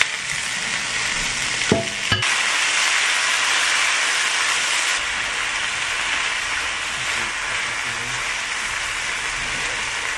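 Marinated chicken pieces and sliced onions sizzling loudly in a hot nonstick frying pan as they are stir-fried with a spatula, a steady hiss throughout. Two sharp knocks about two seconds in.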